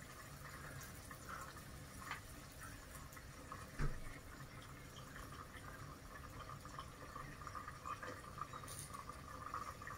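Faint steady sizzling and crackling of köfte and potatoes frying in oil in a pan, with a single knock about four seconds in.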